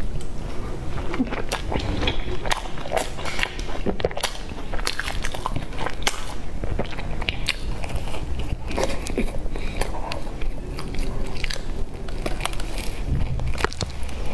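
Close-miked eating sounds: bites and chewing of a soft bread roll with a crumbly topping, full of many small mouth clicks and crackles, over a low steady hum.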